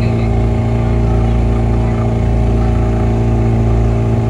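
Motorboat engine running steadily at an even speed: a constant low drone with several steady tones above it.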